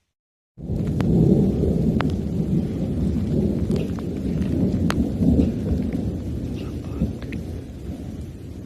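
Thunder rumbling: a deep roll that starts suddenly just over half a second in and slowly fades, with scattered raindrops ticking over it.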